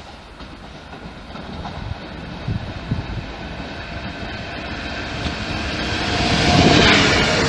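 Electric multiple-unit passenger train approaching, growing steadily louder as wheel-on-rail rumble builds, with a few knocks about halfway through and a steady whine coming in near the end as it draws level.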